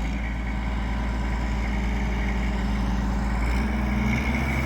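Mobile crane's engine running steadily at a low idle, its note shifting slightly about three and a half seconds in.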